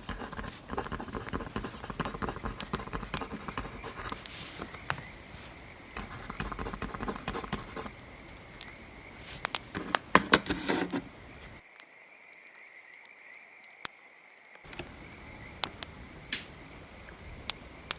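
Wood fire crackling with scattered sharp pops, over stretches of pencil scratching on paper. A cluster of louder knocks and rustles comes near the middle.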